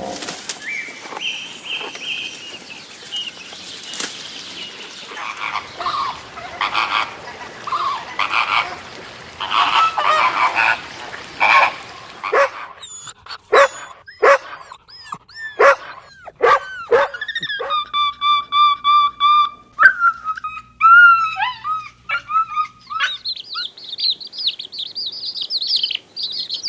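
A run of different animal and bird calls, one after another. Rough honking calls come first, then sharp falling chirps, a held whistle-like tone, and, near the end, dense high peeping.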